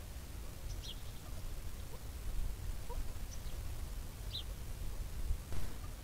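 Steady low rumble of wind on a trail-camera microphone, with faint, short high bird chirps, twice: about a second in and again past the middle.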